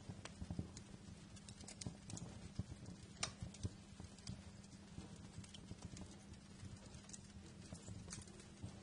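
Wood fire crackling in a fireplace: irregular small pops and snaps, the sharpest one about three seconds in.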